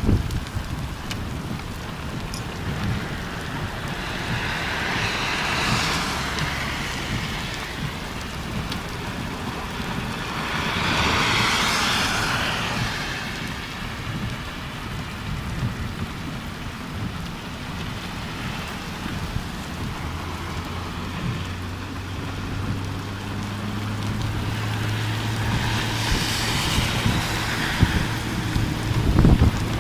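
Steady rain falling, with three louder swells of hiss that rise and fade about 5, 11 and 27 seconds in. A low steady hum joins in the last third.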